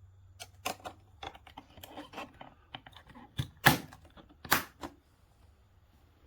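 A run of irregular light clicks and taps with a few sharper knocks, the loudest two about three and a half and four and a half seconds in, from hard objects being handled.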